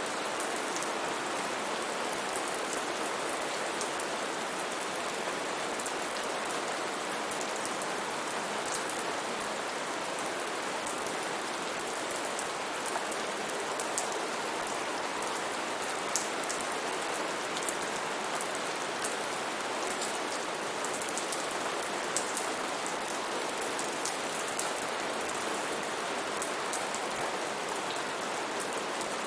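Steady rainfall on rainforest foliage, a constant hiss of rain with many individual drops ticking sharply on leaves and surfaces.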